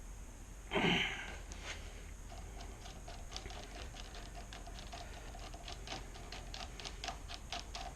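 Hand riv nut gun being unscrewed from a freshly set M10 riv nut in a steel handlebar end, clicking steadily at about three to four ticks a second. A short burst of noise about a second in.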